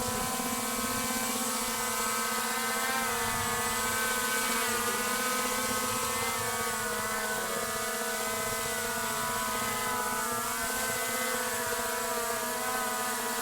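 A drone's electric propellers humming steadily: a layered whine of several close tones that waver slightly as the rotors adjust speed.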